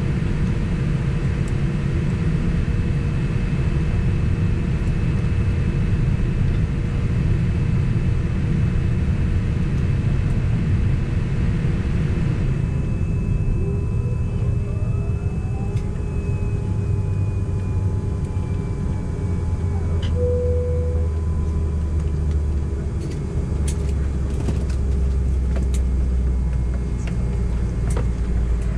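Cabin noise of a Boeing 767 on the ground after landing: a steady low engine and airframe rumble. About halfway through the higher hiss drops away and the engine tones shift in pitch. A short tone sounds about two-thirds in, and scattered clicks come near the end.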